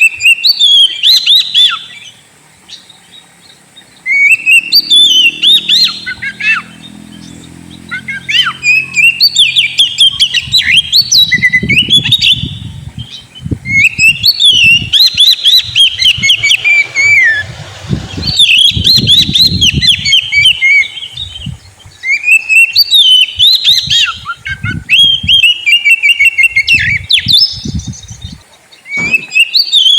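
Oriental magpie-robin song: loud phrases of quick whistled, sliding and chattering notes, each lasting a few seconds with short pauses between, played as a lure to get another magpie-robin singing. A low rumble sits under the song through the middle stretch.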